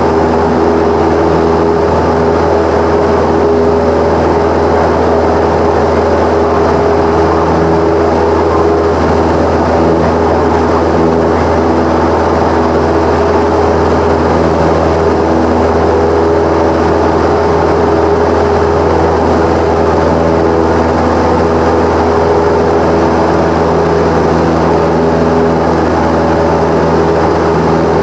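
Cessna 172 piston engine and propeller running at a steady power setting, a constant droning hum with a steady pitch.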